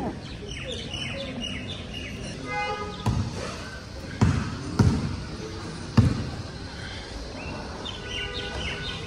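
Small birds chirping in the background, with four dull thumps between about three and six seconds in.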